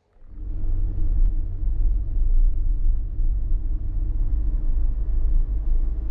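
Vehicle on the move: a steady low engine and road rumble that fades in quickly at the start.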